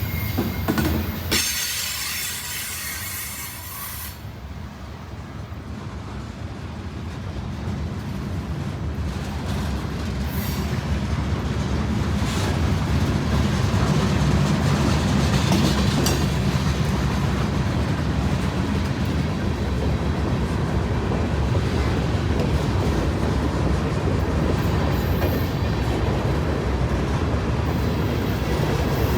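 Freight train rolling past with a steady low rumble and wheels squealing on the rails. It grows louder over the first dozen seconds, then holds steady.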